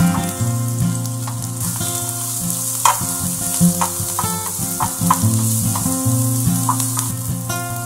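Garlic and sliced shallots sizzling in hot oil in a frying pan, stirred with a silicone spatula, with a few short clicks as it scrapes the pan. Background music plays underneath.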